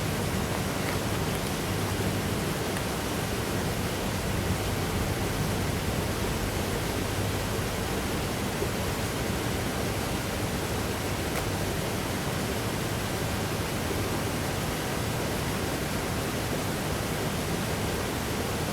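Steady, even hiss-like background noise with no distinct events, and a faint low hum in the first several seconds.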